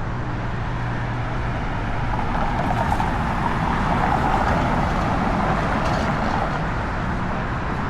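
City street traffic noise, swelling as a vehicle passes about midway.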